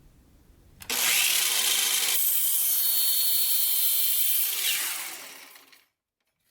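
Electric power tool working a wooden table leg: its motor spins up about a second in, cuts into the wood for a couple of seconds, then winds down with a falling whine and stops.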